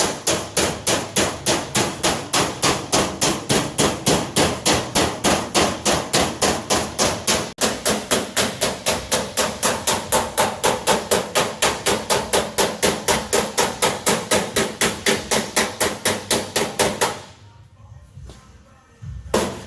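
Hammer blows on the sheet-steel of a car door, a fast even rhythm of about four to five strikes a second. The hammering stops for about two seconds near the end, then starts again.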